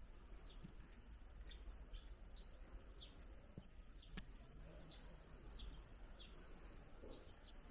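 Faint bird chirps: short, falling high calls repeating about once or twice a second over a low steady background rumble, with a single sharp click about four seconds in.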